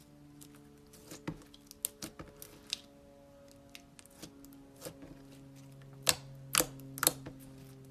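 Slime being pressed and played with, giving a string of sharp clicking pops, the three loudest close together about six to seven seconds in, over soft background music with long held notes.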